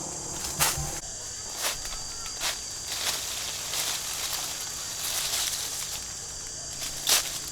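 Steady high-pitched insect drone, with irregular rustling, crunching strokes in vegetation about once a second.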